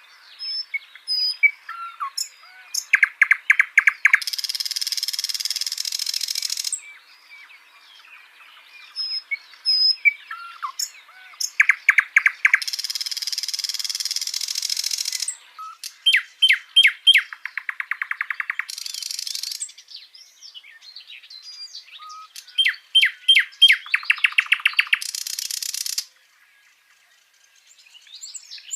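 Sikatan londo flycatcher singing in full, vigorous song: phrases of quick, clear, sharp notes, each leading into a long, rapid, scratchy trill, repeated about four times.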